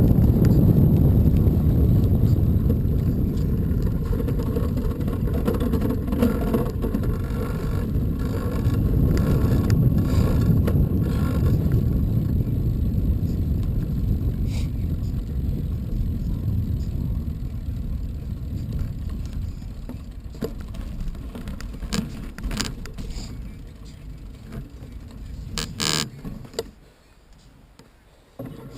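Low rumbling wind and rolling noise from riding a bicycle, gradually fading as the ride slows and stops, with a few sharp knocks near the end.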